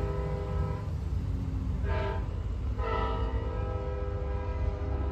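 A train's multi-chime air horn sounding a pattern of blasts: one trailing off just under a second in, a short toot about two seconds in, then a long blast from about three seconds on. A steady low rumble lies beneath.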